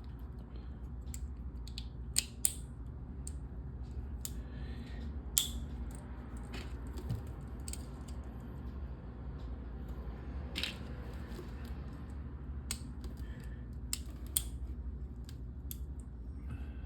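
LEGO plastic pieces being handled and snapped together: scattered sharp clicks, a few louder snaps among softer taps, over a steady low hum.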